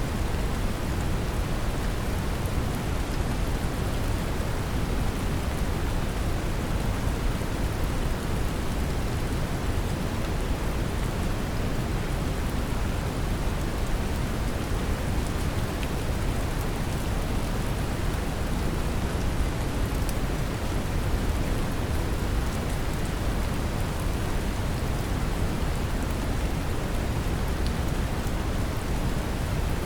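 Steady brown noise, heaviest in the low end, mixed with a continuous hiss of rain and occasional faint drop ticks.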